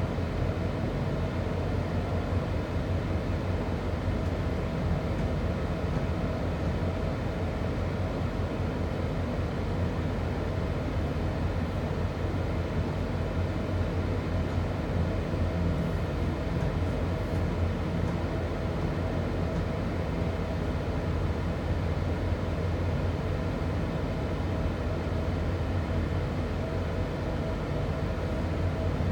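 Class 323 electric multiple unit running at a steady speed, heard on board: an even rumble of wheels on rail with a constant low hum and a steady higher motor tone.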